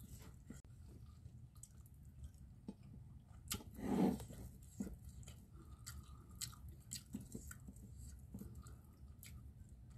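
Close-up chewing and smacking of a mouthful of rice and salted fish, with small wet clicks throughout and one short, louder mouth sound about four seconds in.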